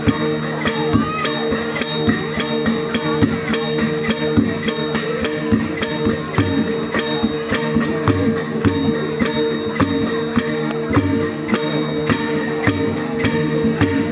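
Traditional Shan dance music with cymbals clashing at a steady beat, about three times a second, over a held gong-like tone and lower drum beats.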